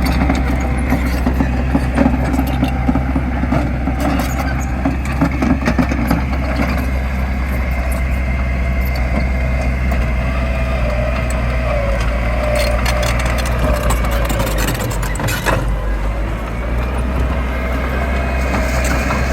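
Heavy diesel construction machinery engine running steadily, with scattered clanks and knocks.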